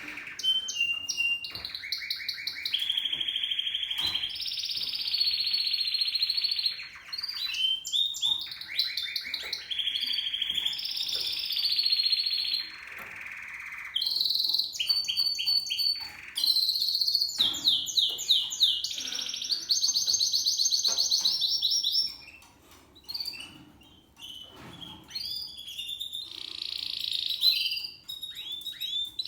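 Spanish Timbrado canary singing: a continuous run of rapid trills and rolled phrases that change pitch from one phrase to the next, turning quieter and more broken about three-quarters of the way through before picking up again near the end.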